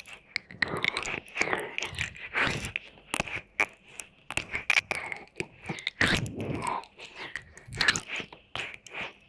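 Close-miked wet mouth sounds for ASMR: irregular licking and smacking clicks of tongue and lips, one after another.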